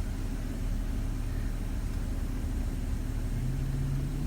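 Car engine idling steadily, a low hum, with a low steady tone joining near the end.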